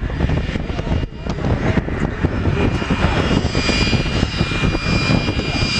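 Loud, continuous engine noise, a heavy rumble. A steady high whine joins it about halfway through and grows stronger.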